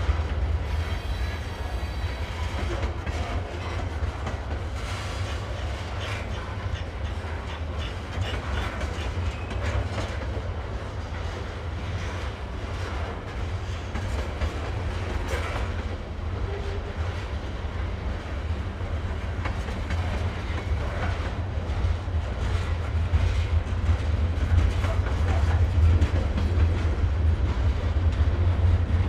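Train rolling past: a steady low rumble with wheels clacking over rail joints, growing louder over the last several seconds.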